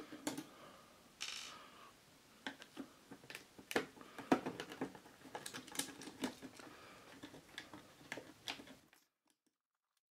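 Irregular clicks and light knocks of a screwdriver and hands working the screws on the underside of a Yamaha CD-2 CD player's metal case, with a short scrape about a second in. The sound cuts off suddenly near the end.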